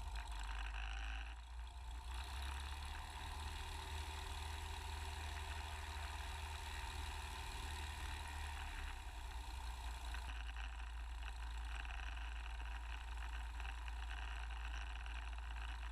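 Cessna 182S's six-cylinder Lycoming IO-540 engine and propeller running steadily at low power.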